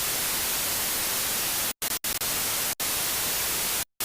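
Loud, even static hiss, like a detuned television, broken by a few very short, abrupt silent cuts, the first about two seconds in and the last near the end.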